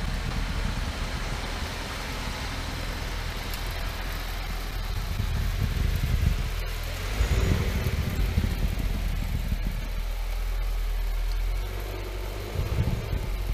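Subaru Ascent's turbocharged flat-four engine running at low speed as the SUV drives slowly through deep snow, a steady low rumble that swells a little about halfway through and again near the end.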